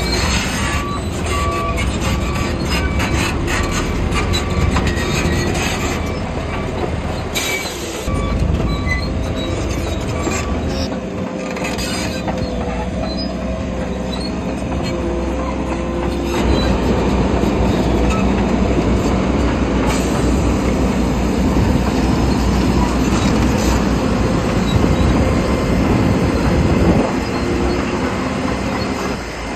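Bulldozer at work: its diesel engine runs with the clank of its steel crawler tracks, growing louder about sixteen seconds in.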